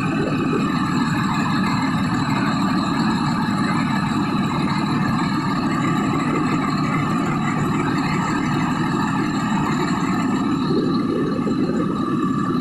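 A motor vehicle's engine running steadily, a constant low rumble with faint steady tones above it and no rise or fall in pitch.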